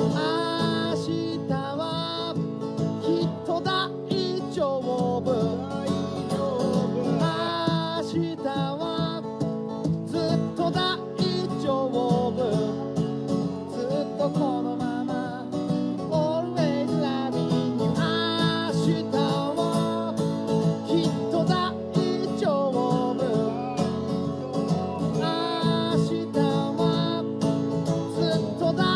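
Acoustic guitar music: steady strummed chords with a wavering melody line carried over them.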